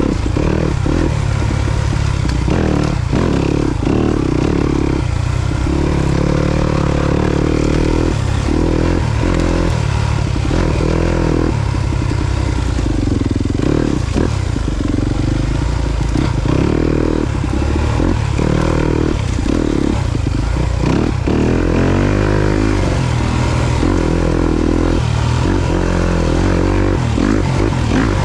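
Yamaha YZ250FX four-stroke single-cylinder dirt bike engine under way on a trail ride. It revs up and down over and over as the throttle is worked, the note dropping away briefly every second or two.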